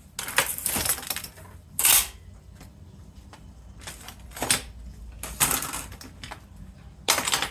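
Small metal scrap parts and tools being handled and set down, clinking and clattering several times at irregular intervals.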